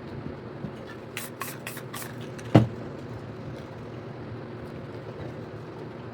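Spray paint can giving four short hissing bursts in quick succession, then a single sharp knock, over a steady background hum.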